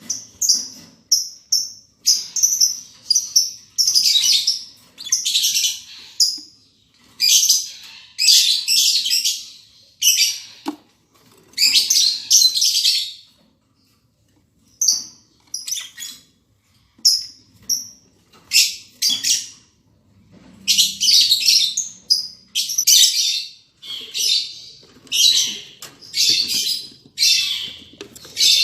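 Lovebirds calling in shrill, harsh chirps that come in short bursts a second or so apart, with a brief pause about halfway through.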